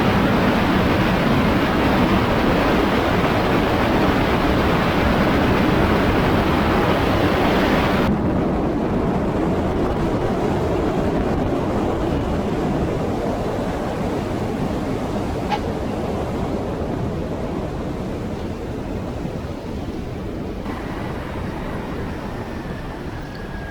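Engine and wind noise of a Rans S7-S Courier light taildragger during a landing: a steady rush that loses its hiss suddenly about eight seconds in, then slowly fades as the plane slows. A faint thin tone comes in near the end, sliding slightly down.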